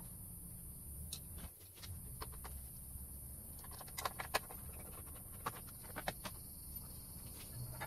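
Scattered light clicks and clinks of small hard objects being handled, over a low steady hum.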